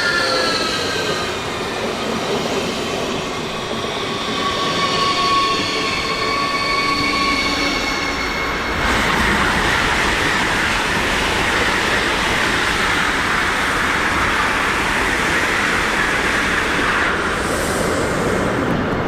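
An electric train on the tracks: the whine of its traction motors falls in pitch, then from about nine seconds in gives way to a steady rush of wheels on rails.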